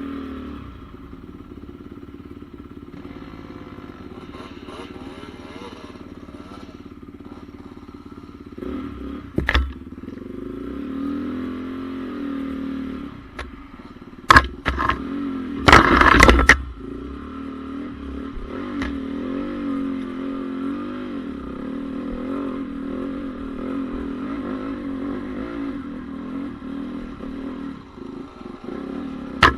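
2014 Honda CRF450R motocross bike's single-cylinder four-stroke engine running, its note rising and falling with the throttle. A few short, loud bursts of noise cut across it about a third of the way in and around the middle.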